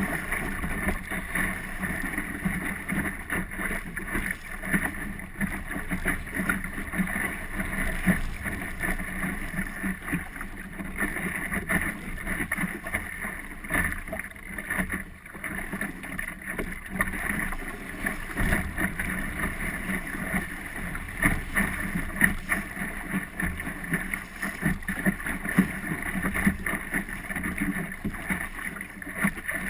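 Small boat under way on open water: a steady rush of water with wind buffeting the microphone and small crackles throughout.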